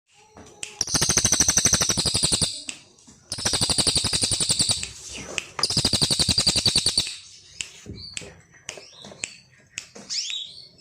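Songbird singing: three loud, very rapid rattling trills of about a second and a half each, then shorter chirps and quick rising whistles.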